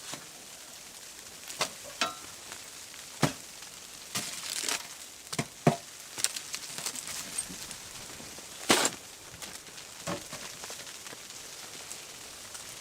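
Food sizzling in a pan, with scattered sharp clicks and knocks of a utensil against the pan, the loudest about three, six and nine seconds in.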